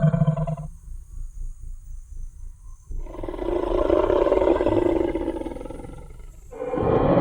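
Designed Tyrannosaurus rex roar sound effect. A roar trails off within the first second, leaving a low, uneven rumble. A second long roar rises about three seconds in and fades away, and another roar begins near the end.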